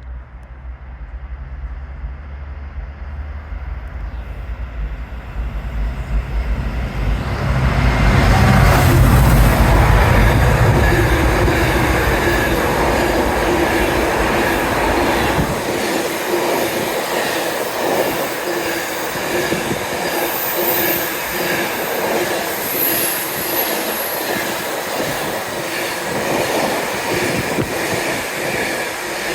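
Freight train passing close by. A heavy low rumble builds to its loudest about nine seconds in and cuts off sharply halfway through, followed by a long run of wagons rolling past with a steady clatter and some wheel squeal.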